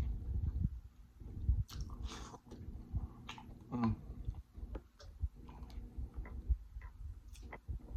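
Close-miked chewing of a person eating a seafood boil, with wet mouth clicks and smacks at an irregular pace and a brief hum about four seconds in.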